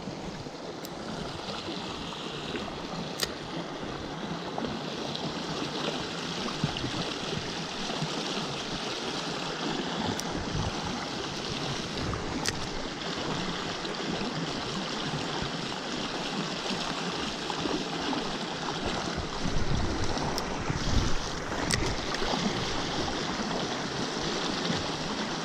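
Steady rush of fast stream water running over rapids, with a few faint ticks.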